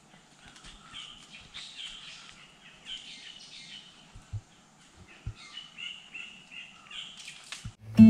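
Several forest birds chirping and calling, a steady scatter of short high notes, with a couple of soft low thumps midway.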